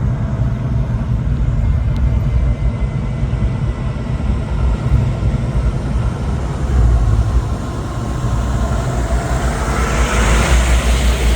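Motor vehicle engine running close by as a low, steady rumble, with a rush of noise swelling near the end as a vehicle passes.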